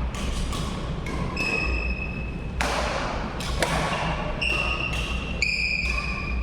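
Badminton rally: court shoes squeaking on the hall floor in a string of short, high chirps, with sharp racket hits on the shuttlecock about two and a half and three and a half seconds in.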